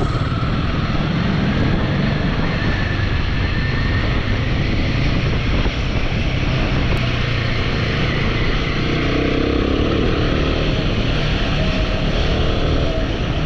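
Royal Enfield motorcycle engine running steadily while riding on a dirt road, with a steady rush of wind and road noise over it.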